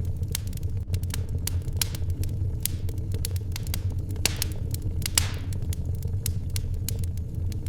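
Wood fire crackling in a fireplace: irregular sharp pops and snaps over a steady low rumble, with one louder pop about five seconds in.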